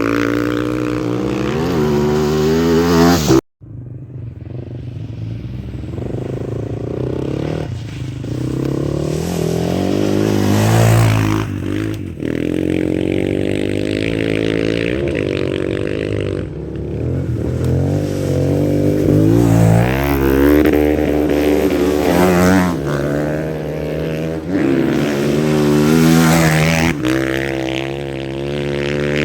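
Off-road rally motorcycles passing one after another at speed, their engines revving up and falling away through the gears. There is a brief sharp break in the sound about three and a half seconds in.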